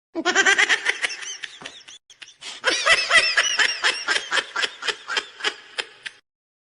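High-pitched laughter: a fast run of short 'ha' bursts, about four or five a second, that stops shortly before the end.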